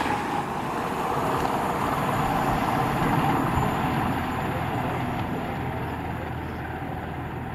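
Running noise of a train that has just passed through the station, a rumbling roar dying away slowly as it moves off.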